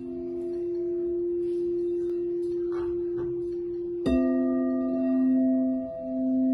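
Tibetan singing bowls: one bowl rings on a steady sustained tone, then about four seconds in a lower bowl is struck and rings out loudly, its tone swelling and dipping in level. The two bowls are tuned to the notes F and C.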